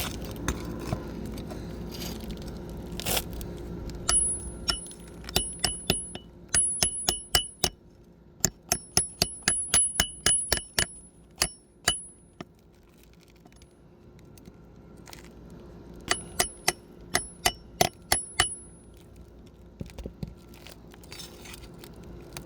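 Steel pry bar struck repeatedly with a hammer, each blow giving a sharp ringing clink, to drive it under a roofing nail in an asphalt shingle. The blows come in two runs, a long one of about three a second, then a pause and a shorter run near the end.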